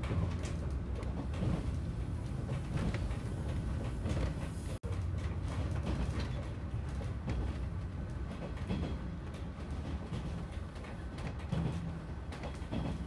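Cabin noise of a JR Kyushu Seaside Liner train under way: a steady low rumble with scattered clicks and rattles from the running gear. The sound cuts out for an instant near the middle.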